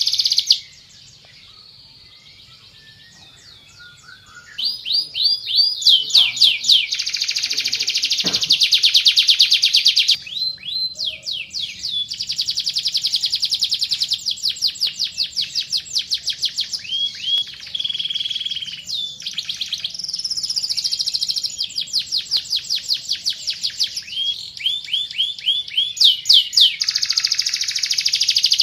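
Domestic canary singing long rolling trills of rapidly repeated high notes, with a pause of about four seconds near the start before the song resumes.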